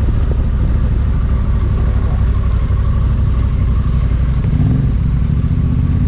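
Adventure motorcycle engine running steadily while riding, with a noisy rush over it; the engine note swells briefly a little past halfway.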